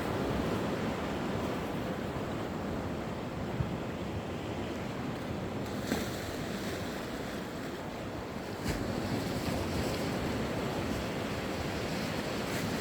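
Sea waves breaking and washing up the beach, a continuous rush that surges twice, with some wind on the microphone.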